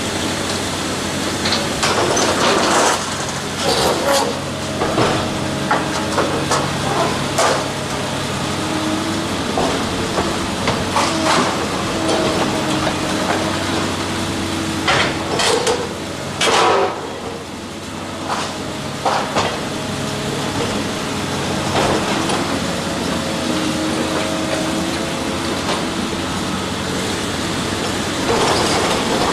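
Heavy construction machine's engine running with a wavering mechanical whine, broken by repeated irregular knocks and crashes as material is struck and broken up.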